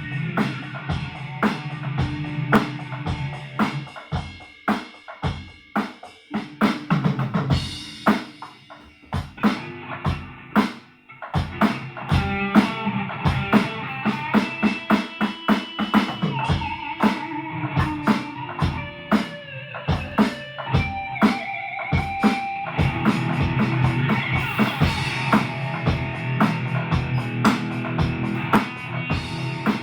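Drum kit and guitar played together in a loose live jam: a steady beat of kick, snare and rimshot hits under guitar chords, thinning out for a few seconds about four seconds in, then building back with single-note guitar lines over the drums.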